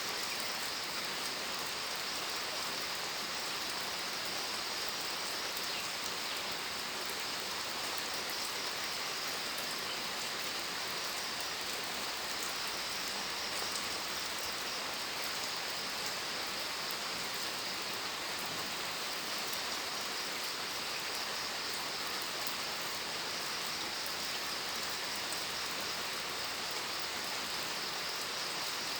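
Steady rain falling, an even hiss with fine pattering of drops, unchanging in level.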